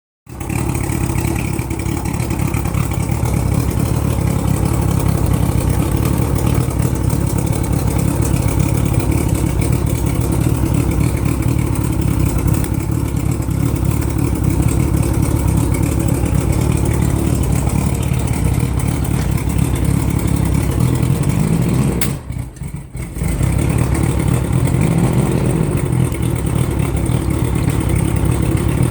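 1987 Mariner 75 hp three-cylinder two-stroke outboard motor running steadily, making the weird noise that worries its owner. The sound dips briefly about three-quarters of the way through, then comes back at the same level.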